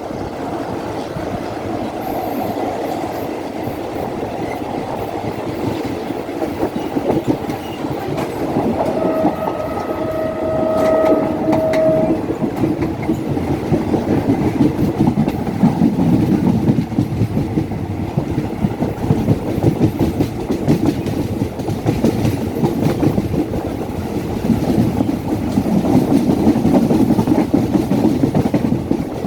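Train of the State Railway of Thailand running past on a curve, its wheels rumbling and clicking over the rail joints. A single steady high tone sounds for about three seconds roughly a third of the way through, and the rumble grows louder in the second half.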